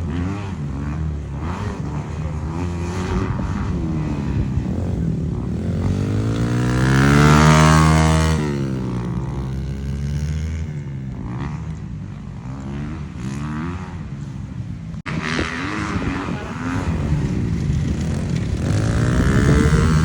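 Dirt bike engine running and revving, its pitch rising and falling; it swells loudest about seven seconds in as the bike passes close, then fades. After a sudden break, an engine builds up again near the end.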